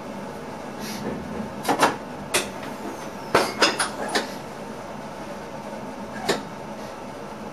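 Steady running noise inside the cab of an NS ICM electric train, broken by a cluster of sharp knocks and clicks a second or two in and a single knock near the end.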